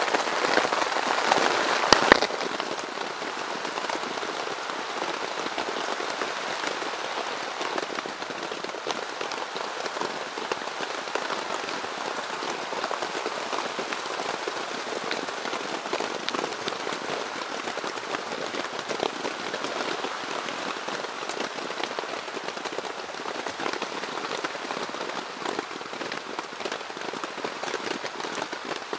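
Steady heavy rain falling on a hot tent's fabric, an even patter of drops. A couple of sharp clicks about two seconds in.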